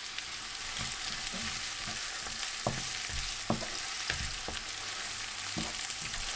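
Chopped onion, garlic, green chillies and ginger sizzling steadily in hot desi ghee in a frying pan for a tadka, stirred with a wooden spatula that gives a few sharp taps against the pan.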